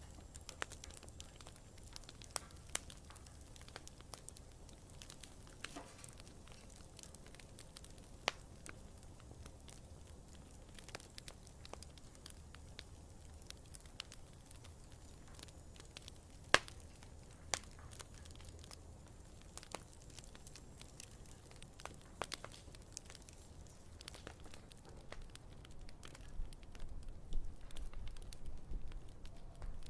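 Campfire burning, with sparse sharp crackles and pops of wood over a faint low rumble; one pop about halfway through is much louder than the rest, and the low rumble grows louder near the end.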